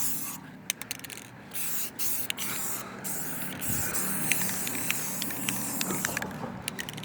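Aerosol spray can of Rust-Oleum clear coat hissing in bursts, cutting out and starting again several times, with a longer pause near the end and scattered small clicks.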